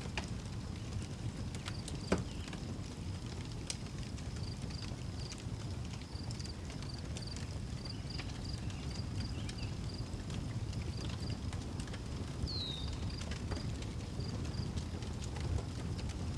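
Outdoor wood fire crackling with scattered sharp pops, the loudest about two seconds in, over a steady low rumble. Crickets chirp in an even pulsing rhythm throughout, and a bird gives one short falling note about three-quarters of the way through.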